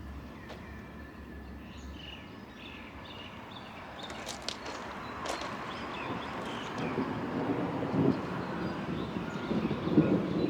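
A train approaching, its low rumble and clatter growing steadily louder over the second half, with a few sharp clicks about four to five seconds in.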